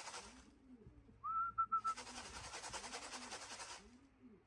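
Pigeons cooing repeatedly at a racing pigeon loft, with a short high whistle about a second in, rising then held with little breaks. A steady hiss drops out briefly and comes back under the cooing.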